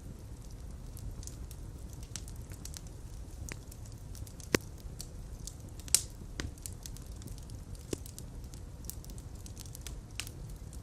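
Fire crackling in a fireplace: a steady low rumble of flames with many small sharp crackles and two louder pops about halfway through.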